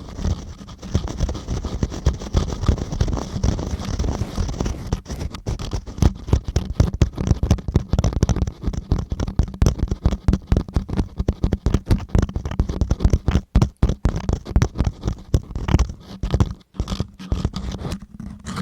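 ASMR ear-cleaning sounds: a tool scratching and scraping against a close microphone in a dense run of fast, irregular strokes with a heavy low rumble, broken by a couple of short pauses in the second half.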